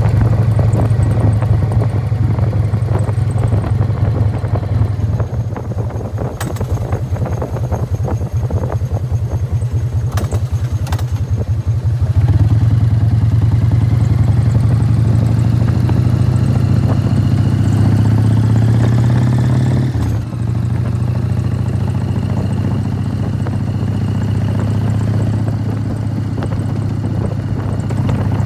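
Harley-Davidson Fat Boy's Evolution V-twin with Python mufflers running under way, a loud, deep exhaust beat with the rattling clatter of its open primary drive. From about twelve seconds in the engine pulls up steadily in pitch, then dips briefly about twenty seconds in.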